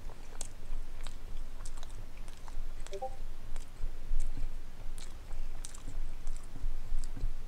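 A man chewing a mouthful of pepperoni pizza close to a headset microphone, with irregular small wet clicks and soft thumps of the jaw. About three seconds in, a brief chime of a few quick notes sounds.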